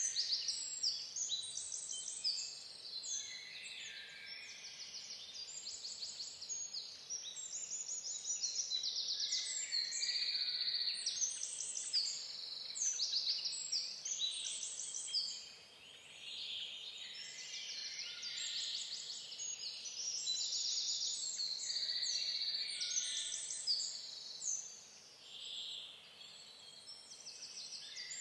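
Songbirds singing and calling continuously, a dense overlap of short chirps, slurred whistles and quick trills, briefly thinning out twice.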